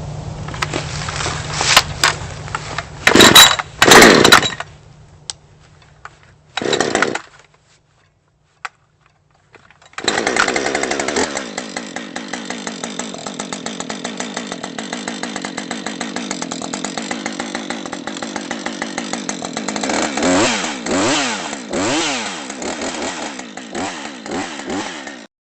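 A new Husqvarna 550 XP two-stroke chainsaw being run: several short loud bursts of revving in the first few seconds, then, after a short gap, the saw running steadily and revved up and down a few times near the end before the sound cuts off suddenly.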